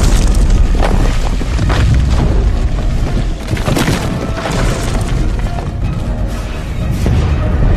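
Salvo of helicopter rocket explosions in a film soundtrack: repeated booms over a continuous deep rumble, with orchestral score underneath.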